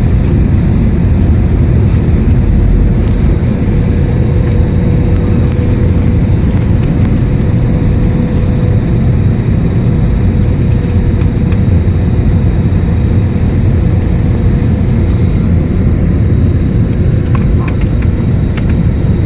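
Airbus A321 airliner cabin noise: a loud, steady rumble with a steady hum running through it, and light clicks and rattles near the end.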